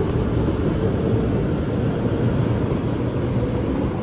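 Steady rumble and hiss of a railway station platform with a train standing at it, with a faint steady hum held throughout.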